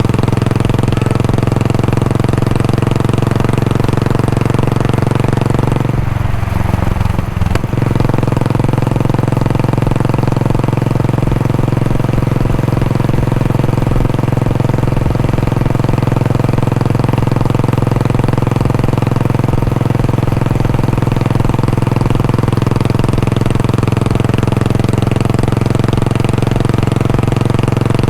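Royal Enfield Bullet 500's single-cylinder four-stroke engine idling steadily through its exhaust, with a brief change in its note about a quarter of the way through.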